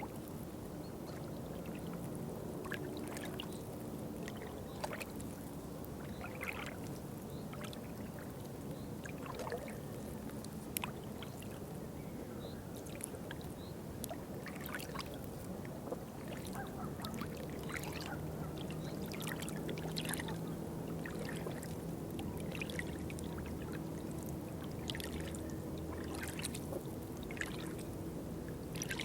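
Water lapping and trickling, with many small drips and splashes scattered over a steady low hum.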